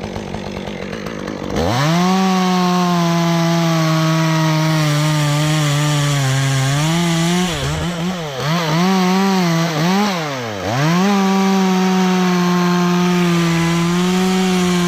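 Chainsaw two-stroke engine at idle, then throttled up to full speed about a second and a half in and cutting through dead elm wood. Between about seven and eleven seconds in, the engine speed sags and recovers several times under the load of the cut, then holds steady at full throttle again.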